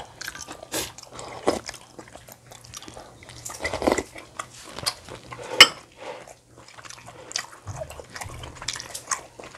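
Close-miked eating sounds: chewing and mouth noises with scattered clicks and taps, the sharpest about five and a half seconds in.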